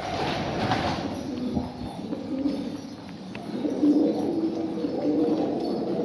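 Domestic pigeons cooing, low throaty coos overlapping, growing stronger in the second half.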